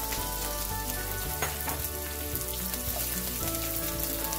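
Chopped broccoli sizzling steadily in hot oil in a wok as it is tipped in, with a couple of light knocks.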